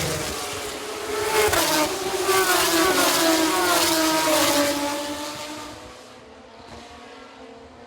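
Several racing cars accelerating past at full throttle, their engine notes climbing and stepping down through gear changes. They are loudest through the middle and fade away after about five seconds.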